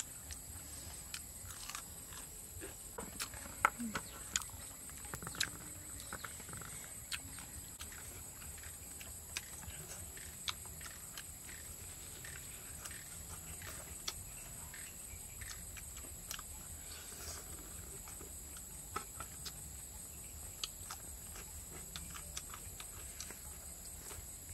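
Crispy fried chicken being bitten and chewed: scattered short crunches and mouth clicks, the loudest cluster about three to five seconds in, over a steady faint high whine.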